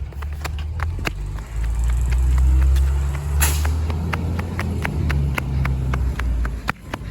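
Rear-loader garbage truck's diesel engine running under load as the packer works, swelling louder about two seconds in, with a short hiss of air about three and a half seconds in. Rapid even ticking runs alongside.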